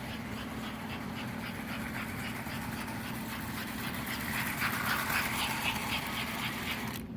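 American Flyer S gauge model train running on its track: a steady motor hum with quick, regular clicking of the wheels over the rail joints, cutting off suddenly near the end as the train stops.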